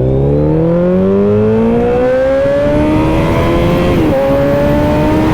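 Kawasaki inline-four sport bike engine accelerating hard, its pitch climbing steadily, then dropping at an upshift about four seconds in and running on nearly level in the next gear.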